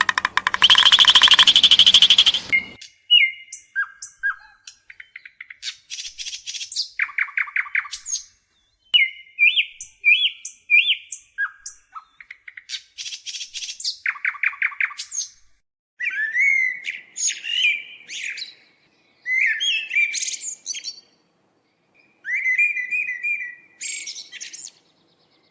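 Songbird recording: a loud, rapid buzzing trill for the first couple of seconds, then a varied series of short chirps, whistled notes and quick trills with brief pauses between phrases.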